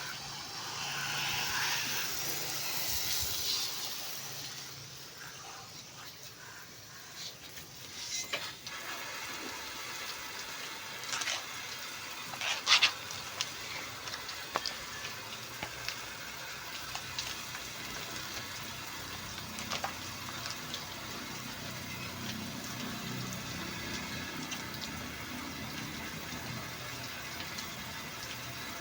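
Water running and splashing during a truck wash, heaviest in the first few seconds, then steadier. Scattered clicks and knocks come through it, the sharpest about 13 seconds in.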